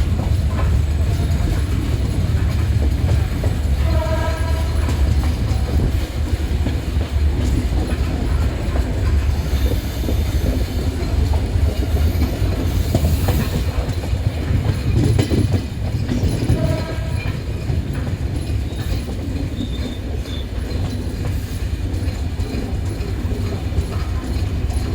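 Silk City Express passenger train running out of the station with a steady low rumble and wheels clattering over the rail joints. Two brief horn notes sound over it, about four seconds in and again about sixteen seconds in.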